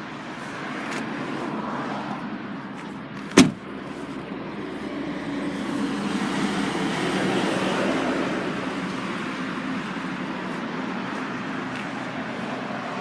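A car's boot lid shut with a single sharp thump about three and a half seconds in, over steady road-traffic noise that swells for a few seconds midway, as a vehicle goes by.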